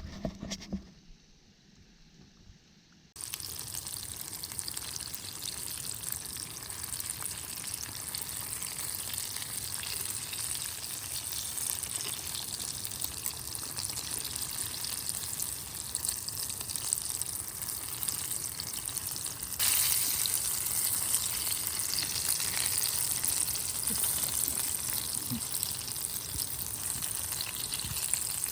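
Hot oil sizzling and crackling as karaage chicken deep-fries. It starts suddenly about three seconds in, after a short knock, and grows louder about twenty seconds in.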